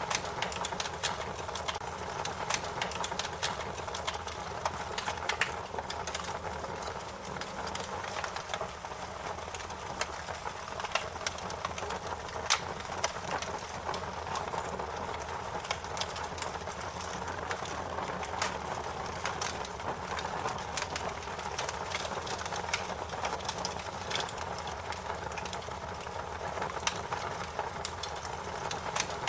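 Wood fire crackling: a steady low hiss with frequent sharp pops and snaps at irregular moments, one louder pop about halfway through.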